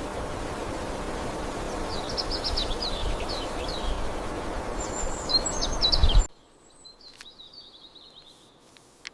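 Small birds singing quick trilled phrases over a steady rushing background. About six seconds in, the rushing cuts off abruptly. Quiet forest follows, with a bird giving a falling series of notes and a couple of sharp clicks.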